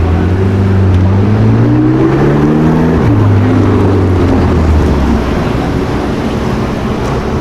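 Sports car engine accelerating: its pitch climbs for about three seconds, drops suddenly with an upshift, then holds lower and fades as the car moves away.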